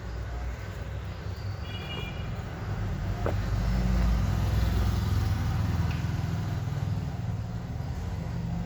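Low rumble of a passing road vehicle, swelling to its loudest near the middle and easing off again, with a short faint budgie chirp about two seconds in.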